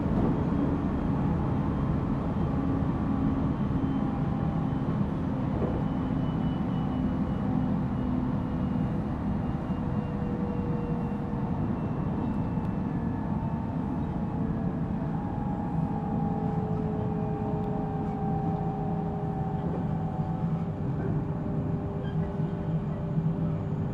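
JR Central 313 series electric train heard from inside its motor car: steady wheel-on-rail rumble with the traction motor and inverter whine, several faint tones slowly falling in pitch as the train slows.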